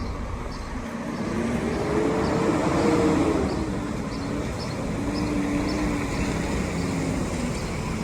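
Semi truck's diesel engine pulling forward under throttle, its pitch rising to a peak about three seconds in and then easing back to a steadier, lower run. A faint regular ticking, a little under two a second, runs underneath.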